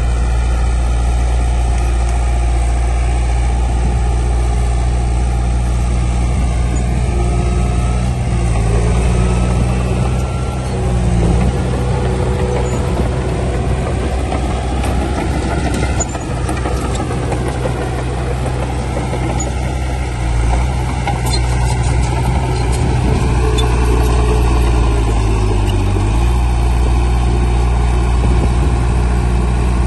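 Heavy diesel engine of earthmoving machinery running steadily, its pitch shifting briefly about a third of the way in and again near the end.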